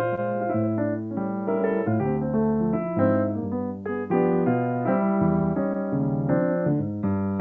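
Solo piano played live, a steady flow of chords over changing bass notes.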